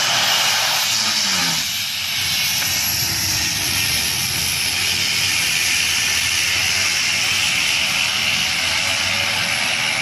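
Beechcraft Duke's twin piston engines and propellers running, heard as a steady, loud hiss. A brief drop in engine pitch comes about a second in.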